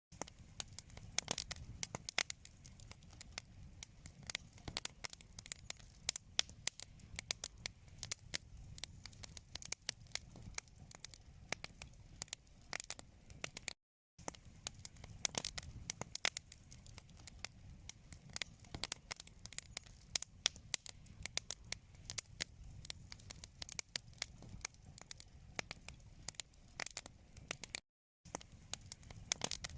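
Wood fire crackling in a fireplace: a dense, irregular run of sharp pops and snaps over a soft low rumble, broken twice by a momentary drop to silence, about halfway through and near the end.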